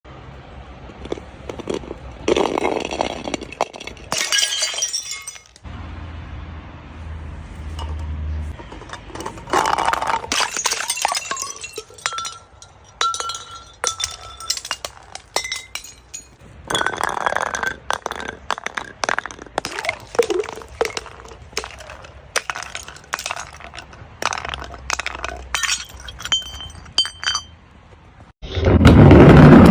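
Glass bottles being broken and crushed: repeated sharp cracks and crunching with clinking glass shards, a few pieces ringing briefly.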